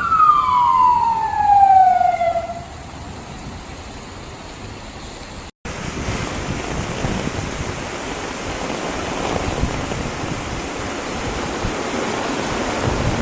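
An emergency vehicle siren wailing, its pitch falling and fading out about two seconds in. After a brief cut about halfway through, a steady hiss of heavy rain.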